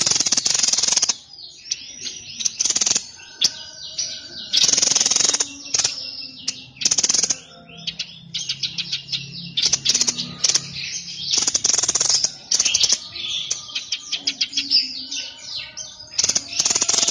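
A songbird known in Indonesian bird-keeping as the 'sniper' singing rapidly and continuously. About half a dozen loud, harsh, rasping bursts, each about a second long, are separated by runs of quick chirps and trills.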